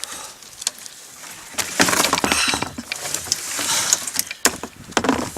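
Irregular knocks, clunks and scraping against a plastic kayak while a large flathead catfish is hauled aboard, with a stretch of rustling and thrashing in the middle.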